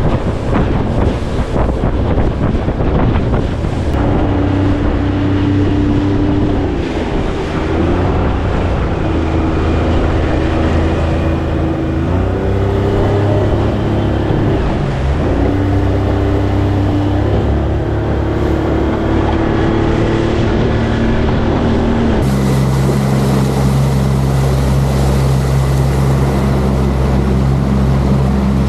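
Boat's outboard motor running underway, with wind and water noise. The engine note shifts up and down for a while, then changes abruptly about two thirds of the way through and holds steady.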